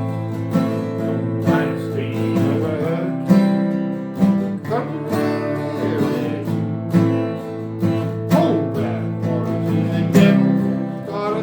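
Acoustic guitars playing an instrumental passage of a New Orleans-style song, with strummed chords.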